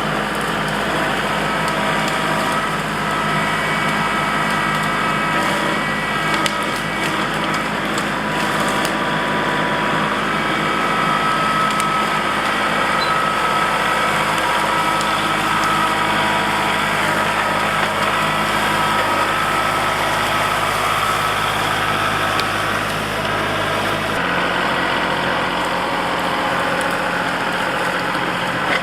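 Kubota L3901 compact tractor's three-cylinder diesel engine running steadily under work, its engine note changing about three-quarters of the way through. A few light clicks and cracks sound over it near the start.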